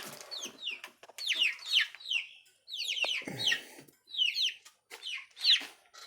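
Young chickens peeping: many short chirps, each falling in pitch, in quick clusters, with a brief rustle about halfway through.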